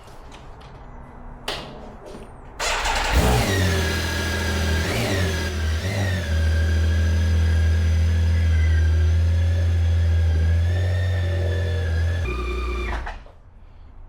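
Heavy motorcycle engine cranked and started about three seconds in, revved briefly twice, then idling steadily before being switched off near the end.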